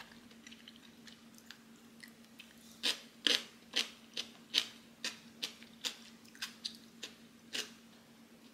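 A person chewing crisp, crunchy food close to the microphone: about a dozen sharp crunches, two to three a second, starting about three seconds in and stopping near the end.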